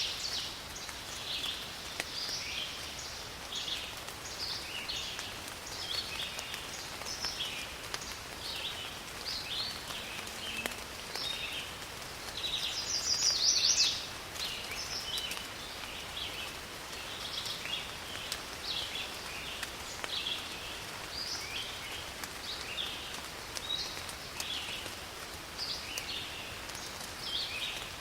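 Forest ambience of light rain pattering through the trees, with many birds chirping in short calls throughout. One louder bird call lasting about a second and a half comes about 13 seconds in.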